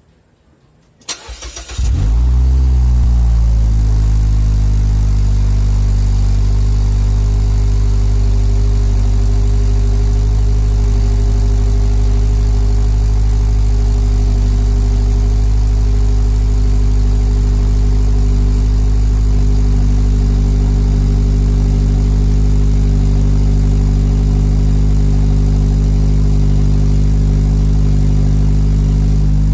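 A 2016 Mazda2 hatchback with a custom double-wall free-flow muffler cold-starting. The starter cranks briefly, and the four-cylinder engine catches about two seconds in with a short flare of revs. It then settles into a loud, steady idle through the exhaust.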